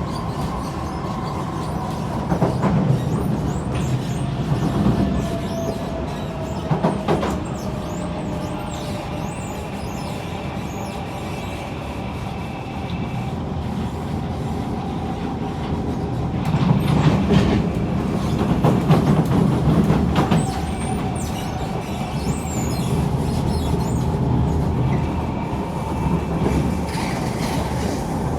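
Kawasaki C151 MRT train heard from inside the car while running: a steady rumble of wheels on rail with the traction motors' tones, one of them falling slowly in pitch during the first several seconds. A few sharp clacks are heard, with a louder stretch of rumble about two-thirds of the way through.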